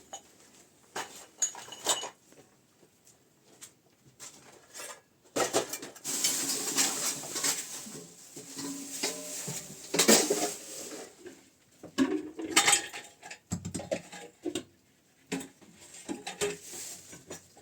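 Clattering and knocking of hard objects being handled, with a longer stretch of scraping in the middle.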